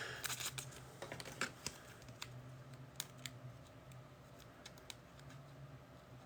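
Faint, scattered clicks and taps of trading cards and plastic sleeves being handled, thickest in the first second and a half, then only now and then.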